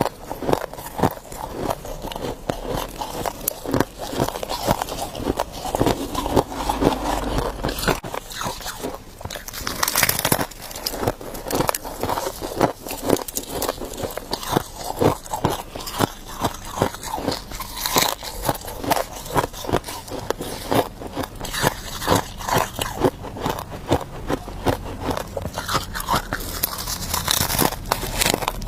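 Ice being bitten and chewed close to the microphone: dense, irregular crunching and cracking, several crunches a second.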